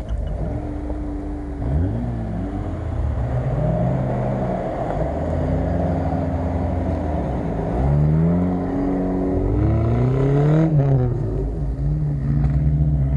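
Car engines revving up and down as off-road vehicles work through soft sand, the pitch rising and falling several times, with a longer climb about two-thirds of the way through.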